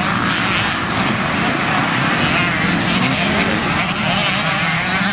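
Several motocross bikes racing, their engines revving up and down as they work through the track.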